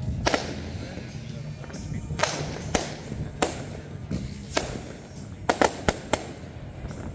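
Aerial fireworks shells bursting overhead: a string of sharp bangs, about nine in seven seconds, bunched into a rapid volley near the end.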